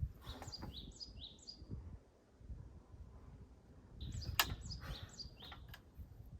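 A songbird singing in two bursts of quick, downward-sweeping chirps, with a sharp click about four seconds in and a low rumble underneath.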